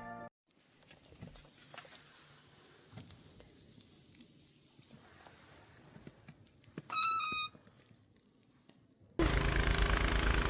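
Outdoor hiss with a brief pitched squeal or call about 7 seconds in, then an engine running steadily at idle from about 9 seconds in, the loudest sound here.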